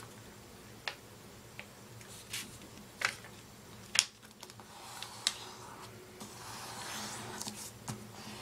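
A sheet of printer paper being folded in half lengthwise: scattered crisp crackles and taps, the sharpest about four seconds in, then a longer rustling rub from about five seconds in as the fold is pressed flat.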